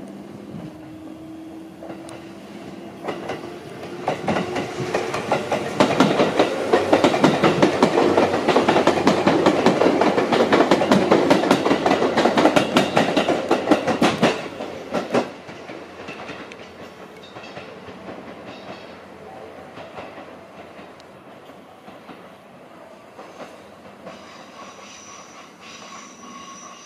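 Seibu 4000 series electric train pulling away and passing close by: a low motor hum rising slowly in pitch as it starts, then a loud, rapid clickety-clack of wheels over rail joints for about ten seconds, fading as the train moves off.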